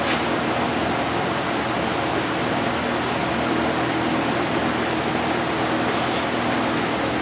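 A fan running: a steady whoosh with a low hum, with a few light ticks near the end.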